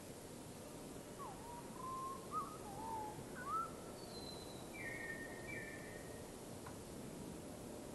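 Birdsong: a string of short, slurred whistles from about a second in, followed by a few thin, higher notes, over a steady background hiss.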